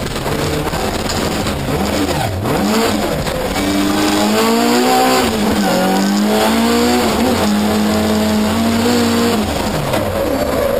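Rallycross car's engine heard from inside the cockpit under hard acceleration. The pitch climbs and drops back sharply twice in the middle as gears change, then holds steady before falling off near the end as the driver lifts.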